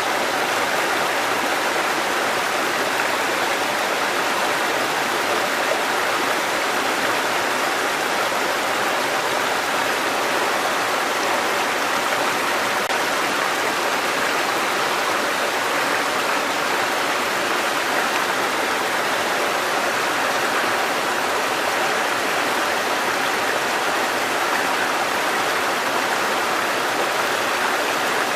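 Mountain stream water cascading over rocks: a steady, even rush with no breaks.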